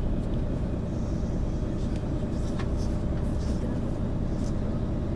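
MAN ÜL 353 intercity bus running, a steady low engine and road rumble with faint scattered rattles.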